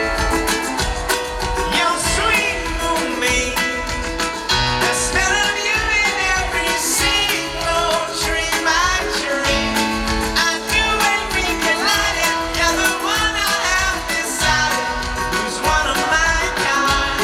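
A live pop-rock band playing, with a lead singer over guitars and a steady drum beat.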